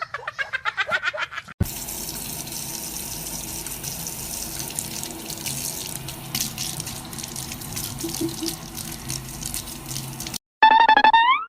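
Water running steadily from a tap into a sink for about nine seconds. Near the end comes a short high call rising in pitch.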